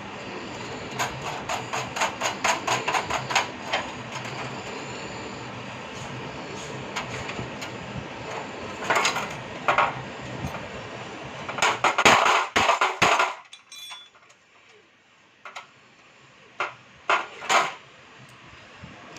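Sharp metallic clicks and knocks of LPG stove parts and tools being handled while nuts are fitted, in quick runs of clicks, with a louder clatter about twelve seconds in and a few scattered knocks after it.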